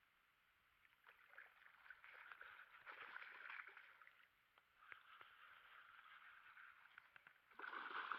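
Faint water sloshing and splashing with small clicks, louder for a moment near the end.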